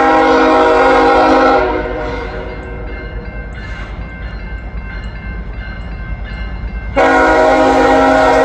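Locomotive air horn, a five-chime Nathan K5HL, sounding two long blasts for a grade crossing: the first cuts off about a second and a half in, the second starts near the end. Between the blasts the slow-moving train rumbles steadily.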